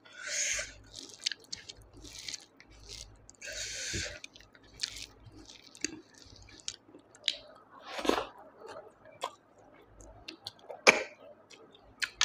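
Close-miked chewing of snail curry and rice: wet, irregular mouth sounds with short hissy smacks and a few sharp clicks.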